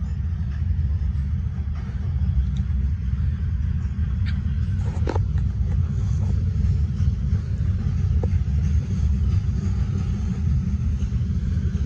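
CSX freight train of covered hopper cars rolling past, a steady low rumble.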